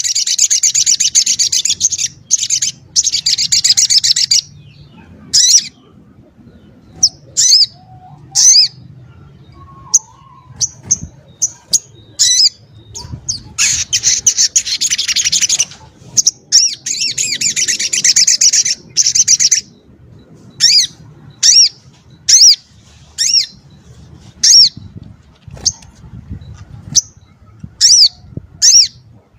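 Sogok ontong (little spiderhunter) singing loudly: long, rapid, high trills of two or three seconds each, alternating with strings of short, sharp, falling notes that come about one a second near the end.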